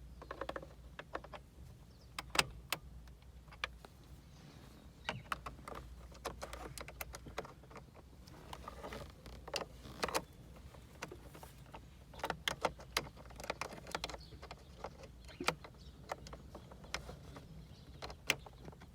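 Irregular clicks and light taps, some sharper than others, scattered throughout over a low steady hum, from hands working on a car's steering wheel parts.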